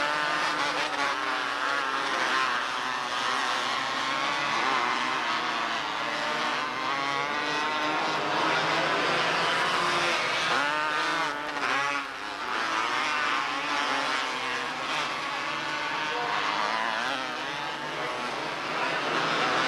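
Several small race-car engines circling a track together, their overlapping pitches rising and falling as the cars rev and pass. There is a short dip in loudness about twelve seconds in.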